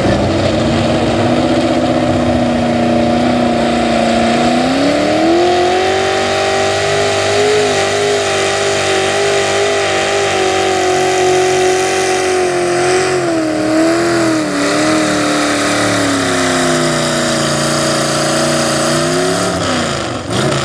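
A super stock two-wheel-drive pulling truck's engine runs at lower revs, then climbs sharply about four seconds in and holds at high revs with small wavers as it works against the load of the pulling sled. Its revs fall away shortly before the end as the pull winds down.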